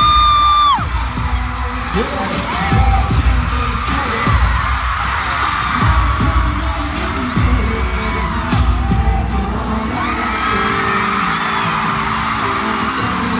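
Live K-pop song played loud over an arena sound system, a heavy bass beat thudding through, with an audience shrieking and cheering over it. A single high shriek is held for about a second at the start, and more rise up again about ten seconds in.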